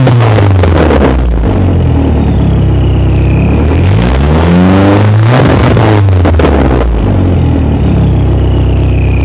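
2000 Pontiac Sunfire GT's 2.4-litre four-cylinder engine through a straight-piped exhaust. It is revved twice, falling back from a rev just as the sound begins, then climbing again about four seconds in and dropping back to a steady idle.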